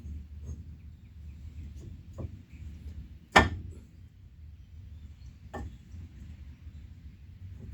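A few sharp knocks of workshop handling on the steel frame work, the loudest about three and a half seconds in, with smaller ones about two seconds in and near the middle, over a low steady rumble.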